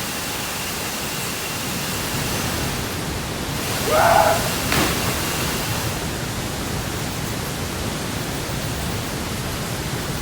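Steady rushing of a waterfall, with a short voice about four seconds in.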